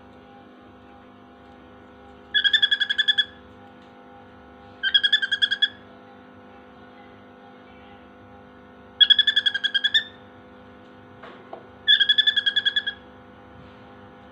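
Cockatiel imitating a mobile phone alarm: four bursts of rapid, evenly pulsed beeps on a steady pitch, each about a second long, at uneven intervals.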